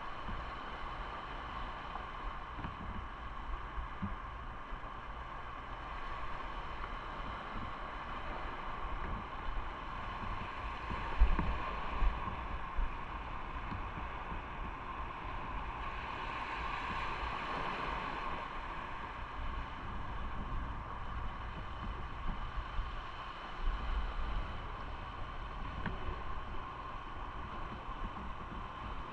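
Motorcycle riding at road speed: steady engine and road noise mixed with wind on the microphone, with a couple of low thumps near the middle.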